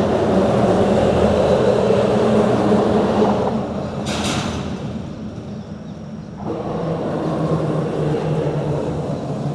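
Vehicle traffic rumbling across a bridge. The rumble is loud for the first few seconds, eases off around the middle, and builds again, with a brief hiss about four seconds in.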